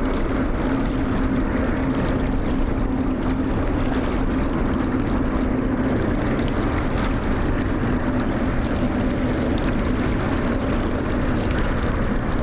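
Steady, unchanging drone of airliner jet engines with a constant low hum under a rushing noise.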